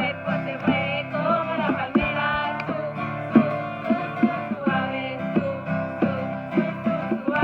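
A praise song sung over a strummed acoustic guitar, the strums falling in a steady, even rhythm.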